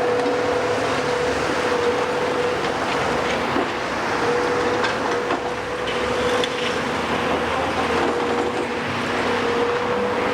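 Heavy demolition machinery running steadily: an engine and hydraulics holding a constant whine, with a few faint knocks.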